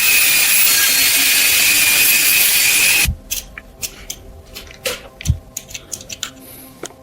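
A handheld power tool running steadily with a high whine, cutting off abruptly about three seconds in. Scattered light clicks and taps of small parts being handled follow.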